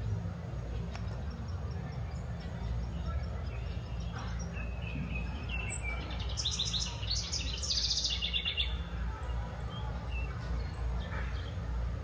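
A songbird sings one quick phrase about halfway through: a high falling note, then a fast series of repeated notes. Fainter chirps come and go over a steady low background noise.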